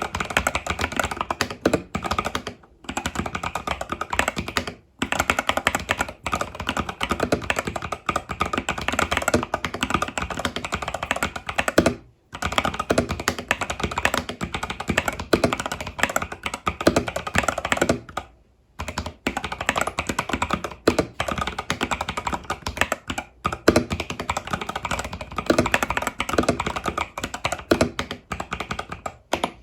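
Fast continuous typing on an Epomaker TH80 Pro mechanical keyboard with Epomaker Budgerigar tactile switches and stock keycaps: dense runs of keystrokes broken by a few short pauses.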